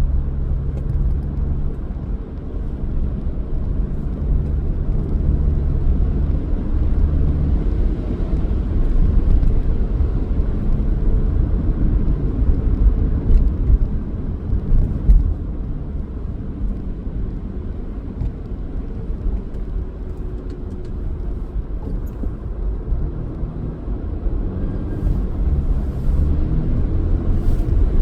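Car driving: a steady low rumble of engine and road noise, with a faint engine hum in the first few seconds and again near the end.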